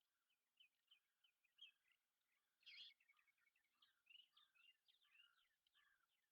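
Faint chirping and twittering of small songbirds, many quick short notes, with one brief louder burst a little before the middle.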